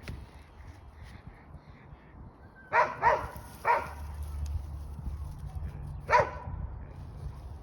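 Small dog, a Yorkshire terrier, barking: three quick barks, then a single bark a few seconds later.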